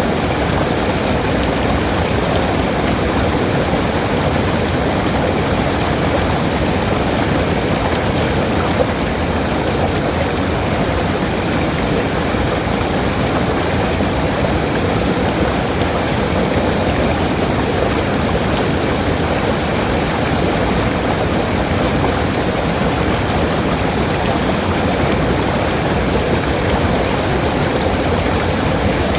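Waterfall: falling water rushing in a steady, unbroken roar of noise, fullest in the low and middle range.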